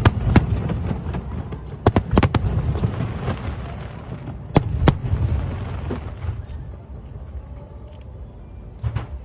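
Fireworks bursting: loud sharp bangs in clusters, a few at the start, a quick run around two seconds in, two more near the middle and one near the end, over a continuous low rumble of more distant bursts.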